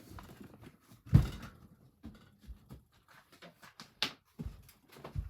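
A few scattered knocks and handling sounds: a heavy thump about a second in, a sharp click about four seconds in, then smaller knocks near the end.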